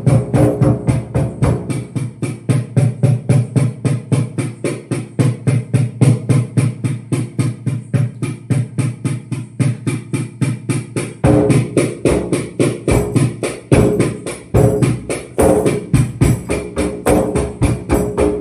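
Hand percussion played in a steady quick rhythm of about three to four beats a second: a drum struck with a tambourine's jingles, over a sustained ringing tone.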